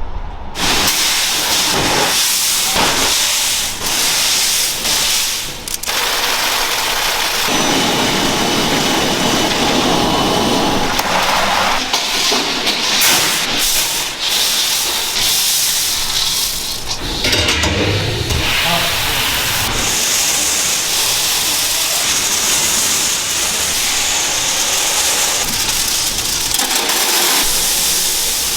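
Steam hissing and water rushing from large cooking pots and equipment in a soup kitchen. The hiss is steady and loud and changes character every few seconds as the scene shifts.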